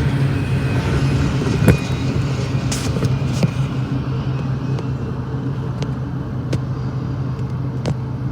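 Freight train rolling past, with a steady diesel engine drone and a noisy rumble, broken by scattered sharp metallic clicks and clanks.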